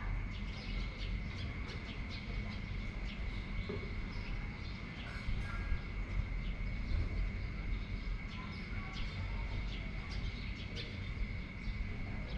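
Evening rain and wind: a steady wash of noise with a low rumble of wind on the microphone, a steady high-pitched tone running under it, and many short sharp ticks or chirps scattered throughout.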